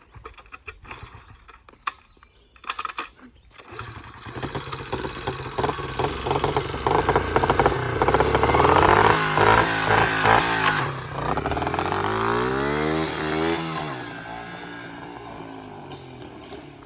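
A small cheap dirt bike's engine. After a few scattered clicks and knocks, it comes in about four seconds in and revs up hard, rising in pitch. Then its pitch drops and it fades away toward the end.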